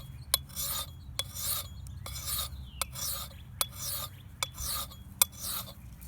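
A hand file rasping along the steel blade of a hand axe in slow, even strokes, about one a second, with a sharp click between strokes; the filing stops near the end.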